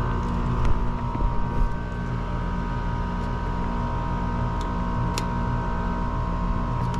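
A steady mechanical hum from a running motor or machine, with a constant high whine over a low drone and a few faint clicks.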